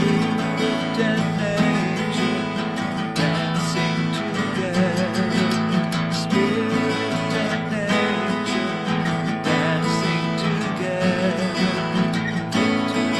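Acoustic guitar strummed steadily, playing a chant melody.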